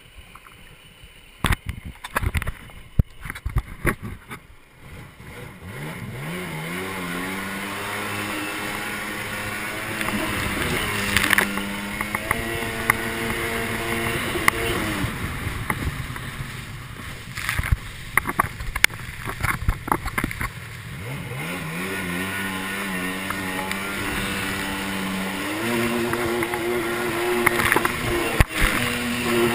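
Sea-Doo XP jet ski's 951cc two-stroke twin running under way. Its pitch rises as it accelerates, eases off and climbs again several times. A few sharp knocks come in the first few seconds before the engine note builds.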